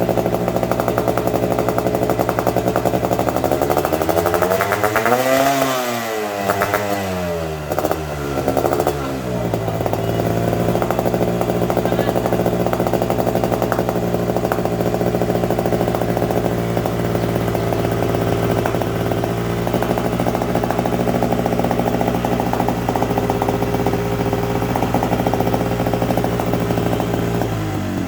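Yamaha RX-King's two-stroke single-cylinder engine running through its exhaust: idling steadily, revved up once about five seconds in and dropping back, blipped twice more shortly after, then settling back to a steady idle.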